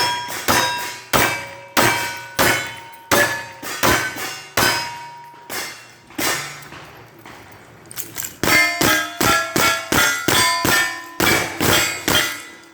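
Rapid gunfire on steel targets: sharp reports, each followed by the ring of struck steel plates. They come about twice a second at first, pause briefly about six seconds in, then return as a faster string near the end.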